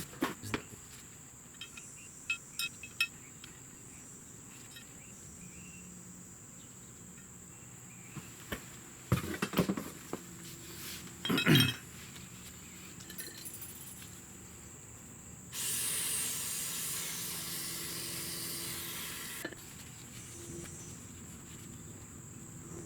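Small metal parts of a brake caliper clinking and knocking as they are handled and cleaned, with a louder knock about eleven seconds in. After that comes a hiss of aerosol spray, about four seconds long, that starts and stops sharply.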